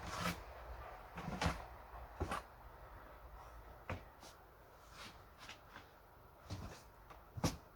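Irregular light knocks and clicks, about one or two a second, the loudest one near the end.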